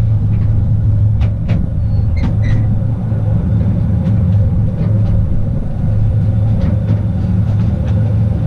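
Artouste narrow-gauge electric train running on its track: a steady low rumble of wheels and running gear, with scattered clicks and a couple of brief high squeaks about two seconds in.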